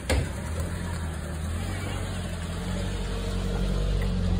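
Taxi engine idling close by, a steady low hum that grows slightly louder, with one sharp knock right at the start.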